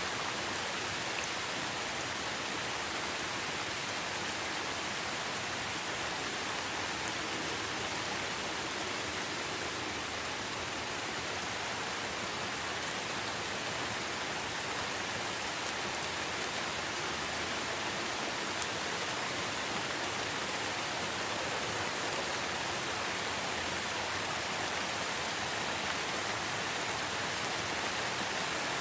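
Steady rainfall in a rainforest: an even hiss of rain that does not let up.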